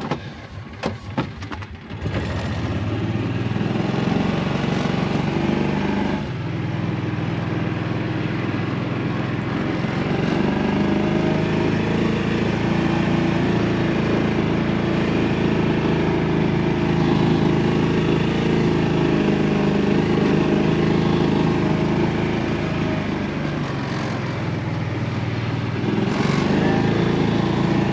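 Side-by-side utility vehicle's engine running steadily as it drives, with small rises and falls in speed. It starts up loud about two seconds in, after a few sharp clicks.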